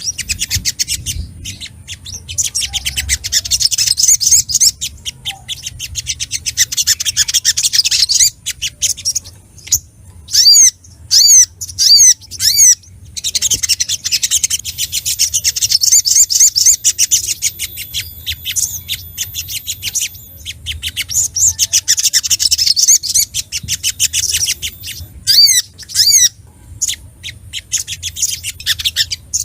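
A sogok ontong (sogon sunbird) singing agitatedly, as it does when challenging a rival. It gives bouts of rapid, high, chattering trills, with separate sharp sweeping call notes in between. A faint low hum lies underneath.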